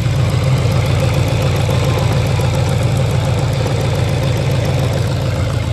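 Jaguar XJR's supercharged V8 idling steadily, a low, even throb.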